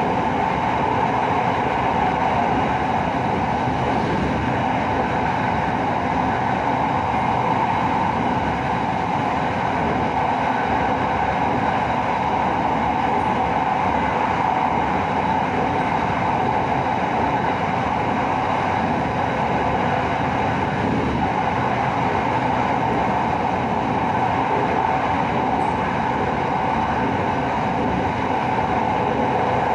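SRT Red Line electric commuter train running at speed, heard from inside the carriage: a steady, unbroken rush of wheels on rail and running gear.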